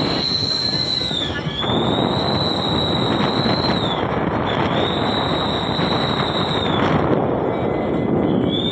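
Car exhaust fitted with a whistling 'wolf' (serigala) tip: a loud rush of exhaust noise with a high, steady whistle over it that briefly dips in pitch and comes back several times.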